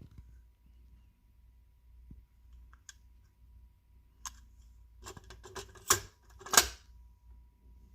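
A scatter of small sharp clicks and clatters, then a quick run of them about five seconds in, ending in two louder clicks a little over half a second apart.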